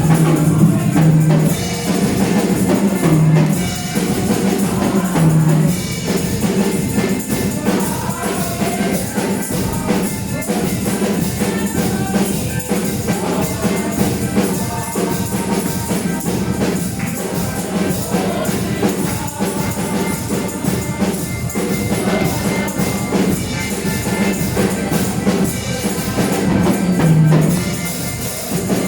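Live worship music: a band with a drum kit and tambourine playing a steady beat.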